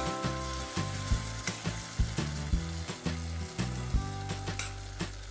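Onion and butiá-pulp sauce sizzling in a stainless steel pot as it heats toward a boil, while a metal spoon stirs it, with a sharp clink or scrape against the pot every second or so.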